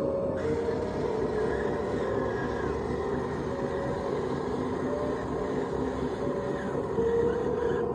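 Electric motors and gearboxes of a radio-controlled construction model whining steadily, with the pitch stepping up and down every second or two as the machine's functions are worked.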